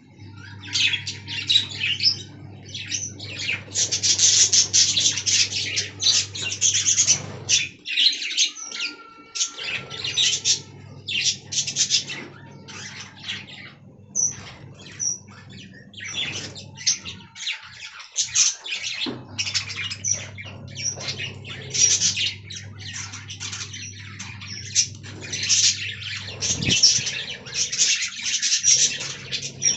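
Budgerigars chattering and warbling, a continuous run of rapid high chirps and squawks. A steady low hum sits underneath and drops out briefly twice.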